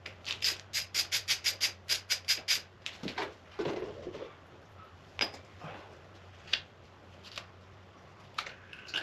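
Ratchet wrench clicking in a quick even run, about six clicks a second, while loosening the coolant drain screw on a dirt bike's water pump. After that come a few scattered clicks and knocks of the tool and parts.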